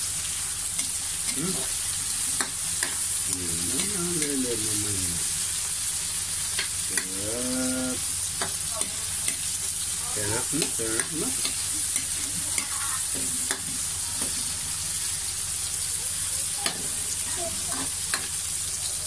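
Onion, garlic and tomato sautéing in oil in a wok: a steady sizzle, with a metal spatula scraping and clicking against the pan now and then.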